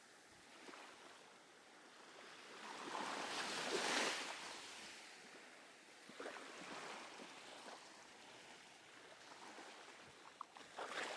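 Small ocean waves breaking and washing up the beach, one swelling to a peak about four seconds in, a smaller one a couple of seconds later, and another building near the end.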